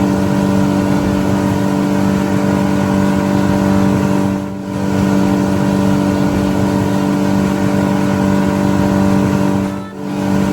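Steady engine drone at one unchanging pitch, dipping briefly twice.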